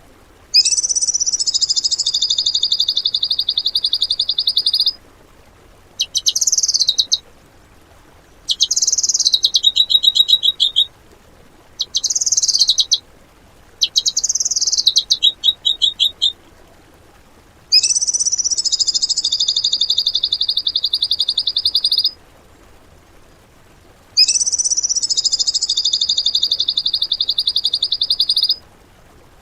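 A small songbird singing high-pitched repeated phrases: long, rapid trills of about four seconds, each opening with a few higher notes, alternate with short chattering bursts, with brief pauses between phrases.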